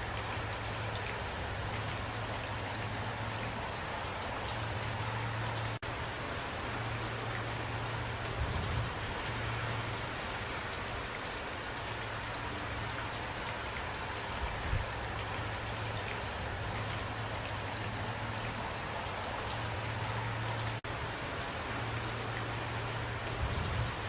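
Steady rain, an even hiss with individual drops ticking through it, over a low hum that comes and goes. The sound cuts out for an instant twice, about six seconds in and again near twenty-one seconds.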